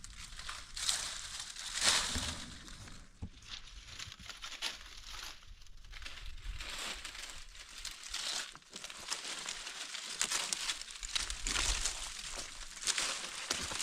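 Irregular crinkling and rustling, as of a material being handled or crumpled, in uneven bursts throughout.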